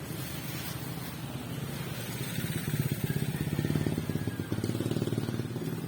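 Small motorcycle engine running with a fast, even pulse, growing louder for a couple of seconds in the middle and then easing back.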